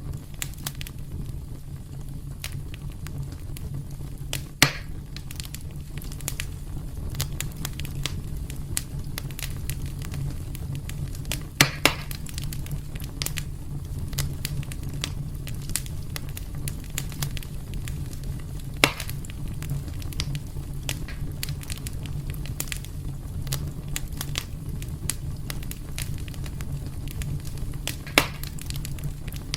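Wood fire burning in a fireplace: a steady low rumble under constant fine crackling, with a handful of louder sharp pops scattered through, two of them close together about midway.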